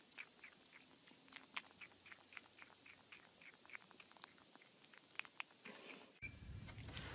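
A kitten gnawing on the rim of a plastic lid: faint, quick clicks of teeth on plastic, about four or five a second. About six seconds in they stop and a low hum takes over.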